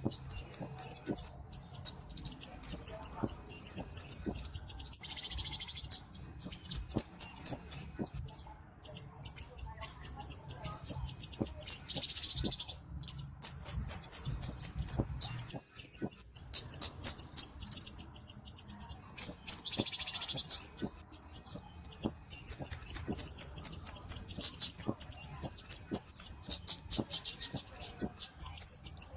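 Kemade (cabe-cabean) flowerpecker calling: long runs of rapid, high-pitched ticking chips, many per second, broken by a few short pauses.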